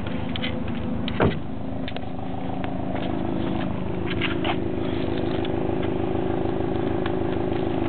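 2008 Subaru Impreza WRX STI's turbocharged flat-four boxer engine running through its exhaust with a steady pulsing idle, and a quick throttle blip about a second in.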